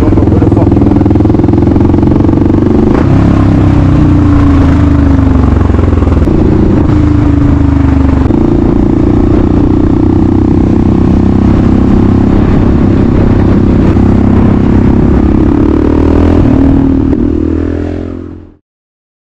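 Kawasaki KLR650's single-cylinder engine running at steady, moderate revs on the move, its note shifting a little in pitch a few times as the throttle changes. The sound fades out near the end.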